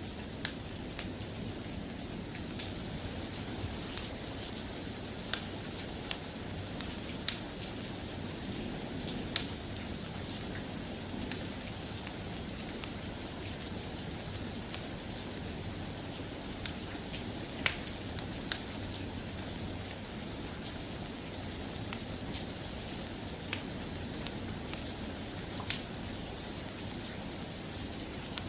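Soft, steady rain falling, with scattered sharp ticks every second or two.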